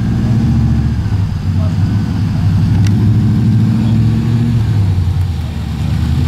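Shelby Cobra 427's V8 engine running with a low, steady rumble that swells and eases slightly a couple of times.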